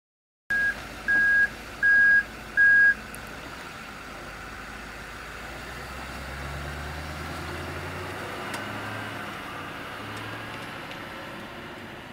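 A vehicle's reversing alarm beeps four times, evenly spaced, then stops. After that a vehicle engine hums steadily, growing louder about halfway through and then easing off.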